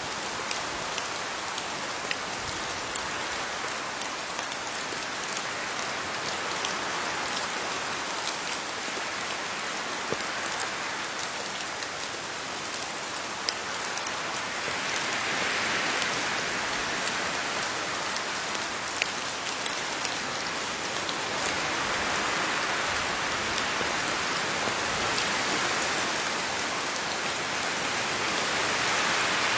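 Steady rain falling on leaves, a dense patter of drops with scattered individual drop ticks, swelling slightly louder a few times.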